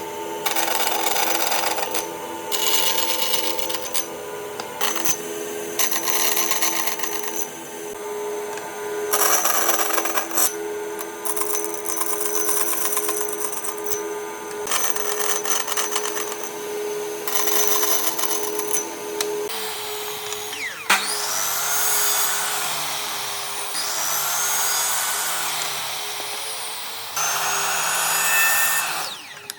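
Electric power tool working wood, its motor whining steadily under bursts of cutting noise. About two-thirds of the way through, the motor's pitch starts rising and falling repeatedly as it is pressed into the wood and eased off.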